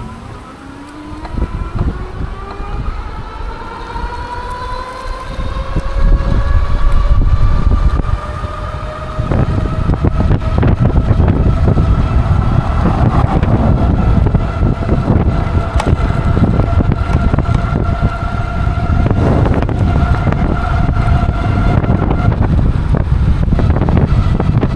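Electric hub motor of an XP 3.0 e-bike whining as the bike speeds up, its pitch rising steadily for about ten seconds and then holding level, before dropping out shortly before the end. Heavy wind rumble on the microphone grows much louder as the speed builds.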